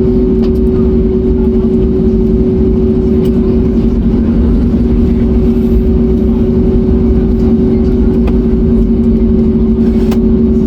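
Airbus A321neo's Pratt & Whitney geared turbofan engines running at a steady setting, heard inside the cabin as a constant two-tone drone over a low rumble.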